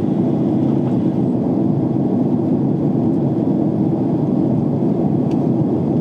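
Steady rushing cabin noise of a jet airliner in flight, engines and airflow heard from a window seat, with the plane descending toward landing.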